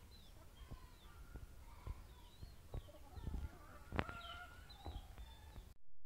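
Faint outdoor birdsong: small birds chirping and twittering in short rising and falling notes, over a low rumble and a few soft knocks. The sound cuts off suddenly just before the end.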